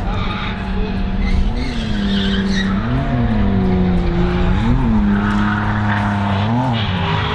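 Drift car engine held high in the revs, its pitch jumping up and dropping back four times, while the tyres screech as the car slides.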